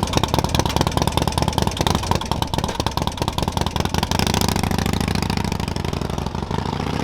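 Motorcycle engine idling through a loud exhaust with a fast, even pulsing beat, settling into a steadier low running note about four seconds in.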